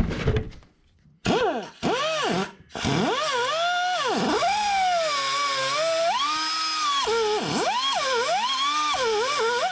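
Cut-off wheel (whiz wheel) starting up about a second in with two short bursts, then cutting through a power steering return line, its high whine repeatedly dropping in pitch as the wheel bites and rising again as it frees up.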